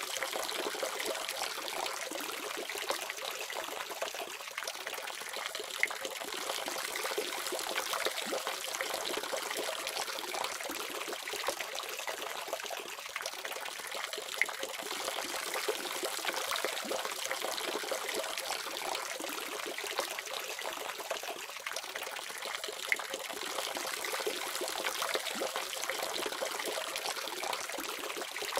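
Tap water running steadily from a faucet in an even splashing stream, with small irregular spatters.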